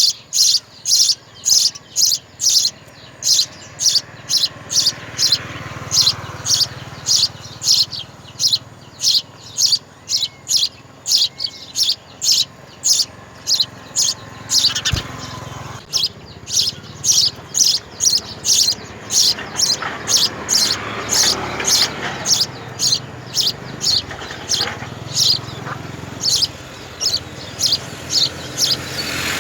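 Nestling birds begging with short, high chirps, about two a second and unbroken.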